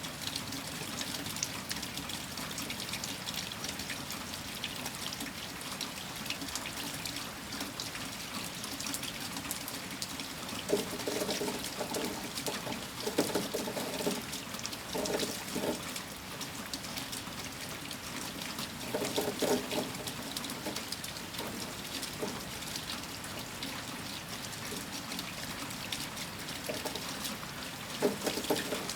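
Steady rain falling, with many small drop impacts and water pouring and trickling that swells into a louder gurgle a few times.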